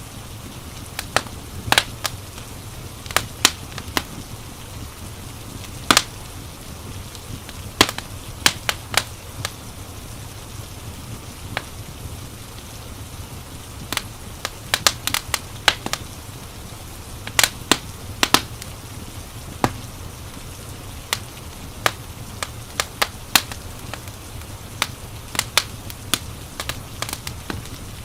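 Wood fire crackling in a fireplace: irregular sharp pops and snaps, several a second at times, over a steady hiss and low rumble.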